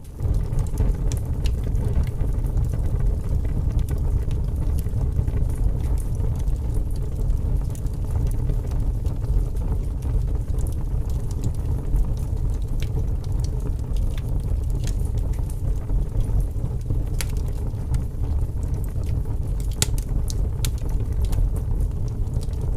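Wood fire burning in a fireplace: a steady low rumble with scattered crackles and pops, which come more often towards the end.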